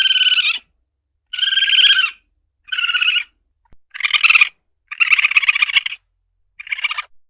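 Asian palm civet (luwak) calls: a series of about six short, harsh, buzzing calls, each under a second long, with brief silent gaps between them.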